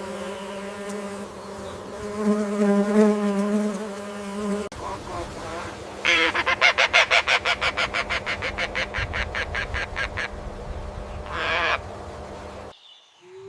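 Insect buzzing with a steady hum, then an abrupt cut to an animal's rapid rattling call of about five or six pulses a second lasting some four seconds, followed by one shorter call.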